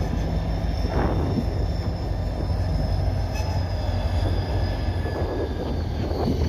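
Freight train moving slowly: a steady low diesel locomotive rumble under a thin, steady high squeal of steel wheels on the rails.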